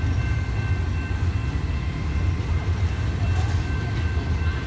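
Double-stack container well cars of a long freight train rolling past close by: a steady rumble of steel wheels on the rails, with a faint steady high-pitched whine above it.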